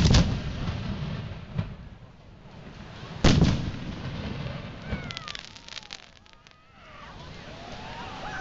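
Aerial fireworks shells bursting: a loud boom at the start and another about three seconds in, each trailing off in a rumble, with a smaller bang between them. Around five seconds in comes a second or so of rapid crackling.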